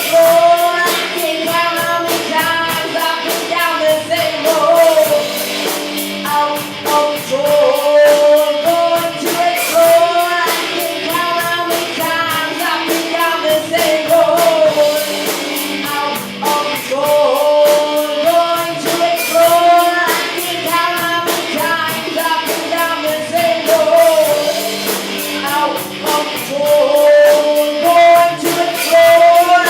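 Live rock band playing a song: a sung lead vocal over guitar and drums, with steady cymbal hits keeping the beat.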